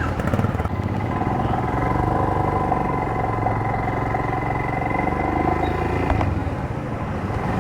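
Motorcycle engine running steadily, with a few steady tones held over a constant rumble.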